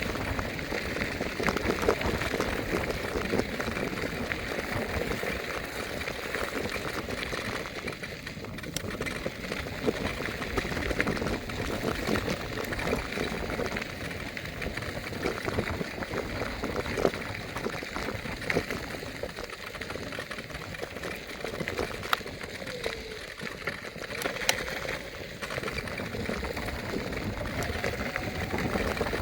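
Electric scooter on the move: a steady rushing noise of wind on the microphone and wheels on the pavement, with frequent small rattles and knocks from bumps in the road.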